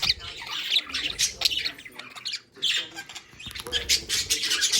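A flock of pet budgerigars chattering and squawking, a busy run of quick, sharp chirps and squawks.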